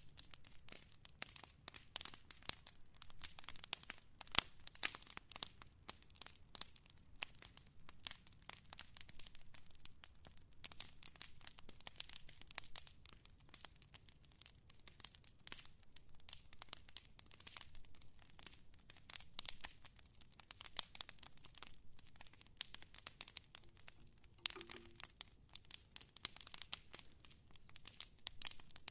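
Fire crackling, with a dense, irregular stream of small pops and snaps.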